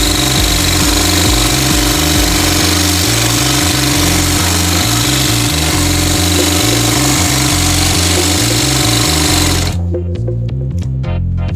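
TYPICAL GC2263 cylinder-arm walking-foot sewing machine with a servo motor, running steadily as it sews, over background music. The machine stops near the end, leaving only the music.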